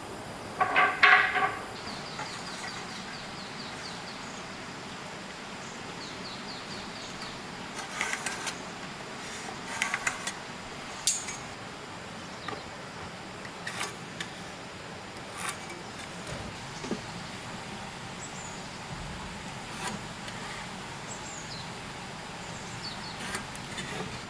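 Scattered sharp knocks and clicks, one every couple of seconds, over a steady background hiss. A short, loud pitched sound comes about a second in.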